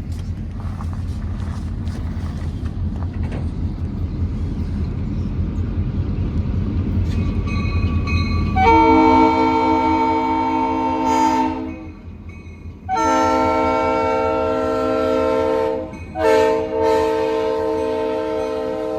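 A low rumble, then the horn of an EMD MP15 diesel switcher blowing long, long, short, long, the grade-crossing signal. The last blast runs on past the end.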